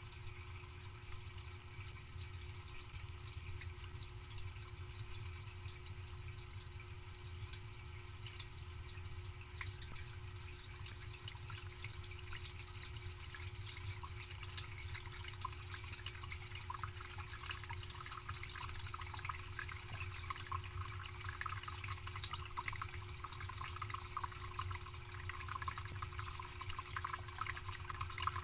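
Dishwasher running, with a steady low motor hum under water spraying and splashing inside the tub. The splashing grows busier about halfway through.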